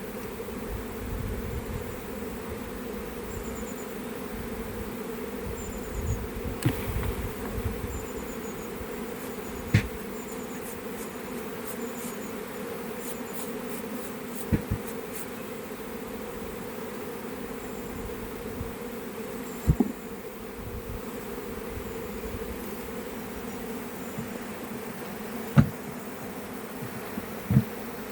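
Honeybees buzzing in a steady hum, with a handful of sharp knocks scattered through it.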